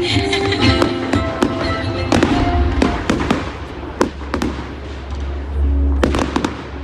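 Fireworks exploding in irregular bangs and crackles, with a quick cluster of bangs near the end. Music with a heavy bass plays alongside.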